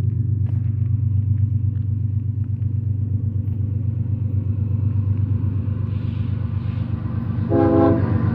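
Approaching BNSF diesel freight locomotives, led by an ES44AC, running with a steady low rumble that slowly grows louder. About seven and a half seconds in comes a short horn blast.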